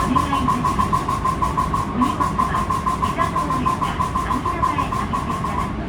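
Rapid, evenly repeated clacking ("kak, kak, kak") from under the floor of a 223 series 1000 subseries electric train, with a ringing tone pulsing with each clack, stopping abruptly near the end. The uploader takes it for the air compressor and says the cause is unknown.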